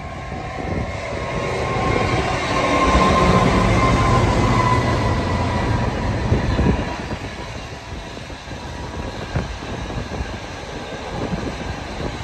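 A freight train passing close by: the locomotive goes by loudest about three to seven seconds in, its tone dropping slightly in pitch as it passes, then the container wagons follow with a run of wheel clicks.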